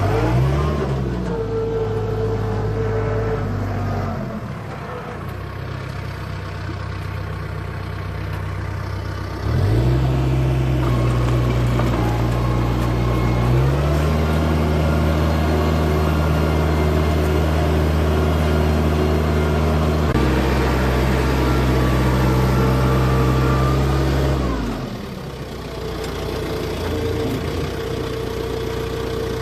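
A4800 farm tractor's engine running under changing throttle while disk ploughing: the revs step up about nine seconds in, climb higher a few seconds later, then ease down and drop back to a lower, steady run near the end.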